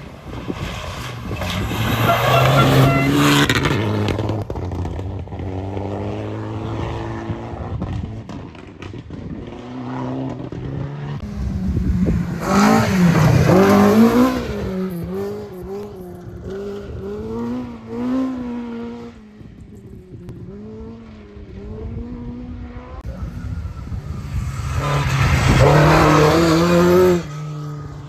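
Rally car engine revving hard on a gravel stage, the pitch rising and falling with gear changes and lifts. It swells loudly three times: near the start, midway and near the end.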